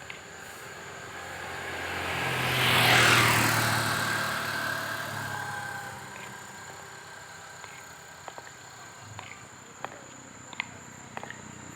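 A motor vehicle passes by, its sound swelling to the loudest point about three seconds in and then fading away with a falling pitch. Faint scattered clicks follow.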